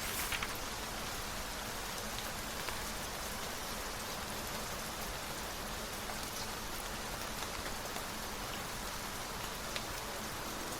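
Steady rain falling, an even hiss with scattered faint drop ticks, and a brief rustle right at the start.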